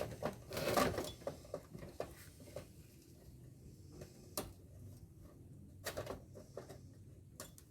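Scattered knocks and clinks of metal parts being handled while an air-conditioner blower unit is dismantled by hand, with a louder rattle about a second in and a few single knocks spread through the rest.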